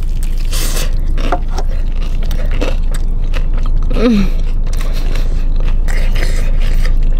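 Biting into a crispy fried chicken drumstick coated in gravy, then chewing it: crunchy crackles and wet chewing with lip smacks, and a short hummed "mm" about four seconds in. A steady low hum runs underneath.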